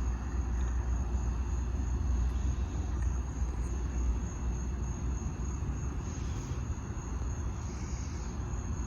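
Thunder rolling: a low, continuous rumble that eases slightly after about six seconds.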